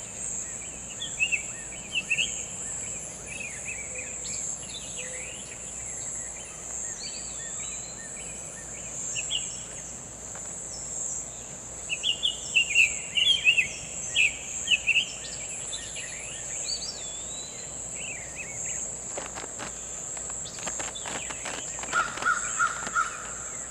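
Summer tanager singing, short groups of whistled, robin-like phrases with pauses between them, over a steady high-pitched insect drone. Near the end come a few clicks and a quick run of three lower notes.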